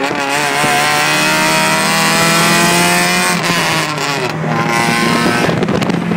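Honda four-cylinder car engine accelerating hard at full throttle: the revs climb steadily for about three seconds, drop at a gear change, then climb again.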